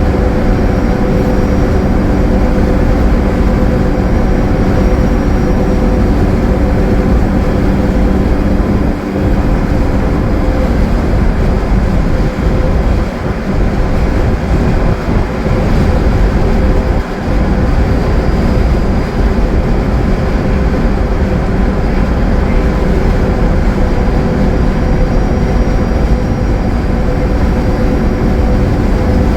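A 2015 Gillig Low Floor bus's Cummins ISL9 diesel engine and Voith transmission running steadily at highway speed: a loud, even drone over road noise that dips briefly twice.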